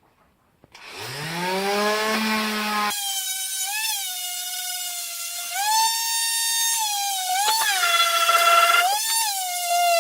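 Electric palm sander switched on about a second in, its motor whine rising as it spins up, then sanding wood, the whine's pitch dipping and recovering several times as it is pressed against the work.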